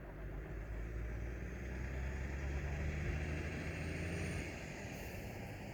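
A motor vehicle's engine running steadily, a low hum that builds over the first few seconds and eases slightly near the end.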